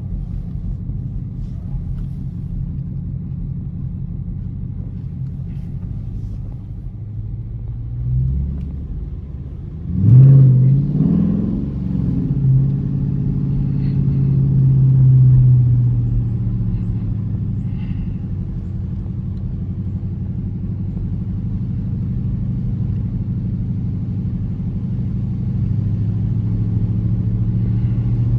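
Dodge Charger R/T's 5.7-litre HEMI V8 running with a steady drone while driving; about ten seconds in it suddenly revs up hard into a full-throttle pull, loudest for a second or two, then holds a strong pull and eases back to a steady cruise.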